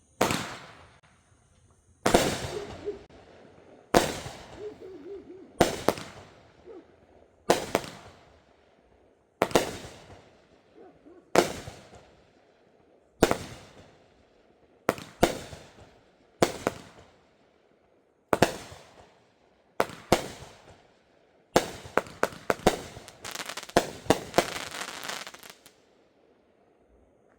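Spirit of 76 Angry Cowboy 200-gram, 16-shot firework cake firing: single shots about every two seconds, each a sharp bang with a fading tail. In the last few seconds the shots come in a fast volley and end in a rush of crackle, the cake's crackle finale.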